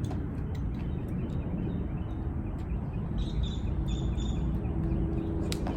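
Outdoor wind rumbling on the microphone, with a bird chirping several times in quick succession in the middle. A few faint ticks and a sharp tap near the end fit a jump rope slapping the ground.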